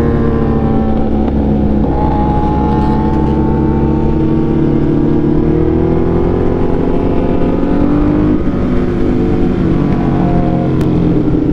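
Ducati Hypermotard's engine running steadily while riding, its pitch rising gently about halfway through and easing back down.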